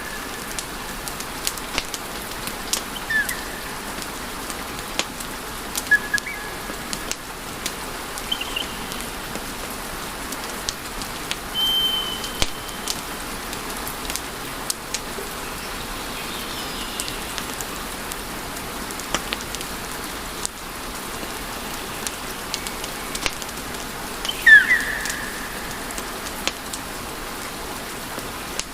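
Wood fire in a fireplace burning with a steady hiss and scattered sharp crackles and pops, and several short high whistles from the burning logs, the loudest near the end.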